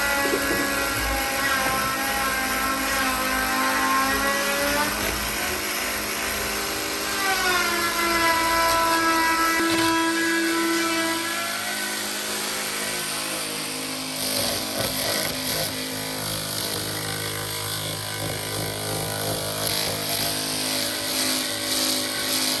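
An electric power tool running continuously, its motor pitch dropping and rising again a couple of times as the load changes, then a rougher, noisier stretch in the second half.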